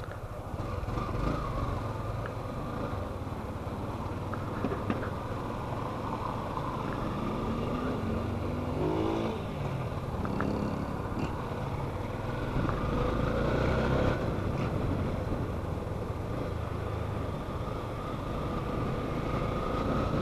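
Motorcycle being ridden on a drizzle-wet road: the engine runs under steady road and wind noise, its pitch rising and falling with the throttle a few times.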